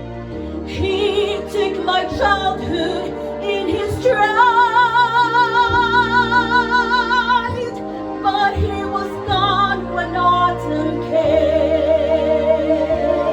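A woman singing a slow ballad in an operatic style with wide vibrato over held accompaniment chords, sustaining one long note through the middle.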